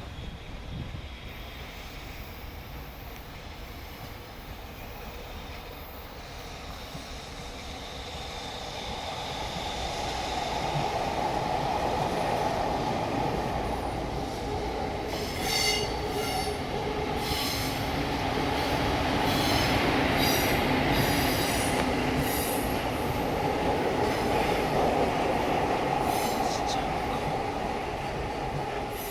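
JR Freight EF65 electric locomotive hauling a container freight train passes: the rumble of wheels on rail builds over the first ten seconds and stays loud. Short high wheel squeals come in the second half.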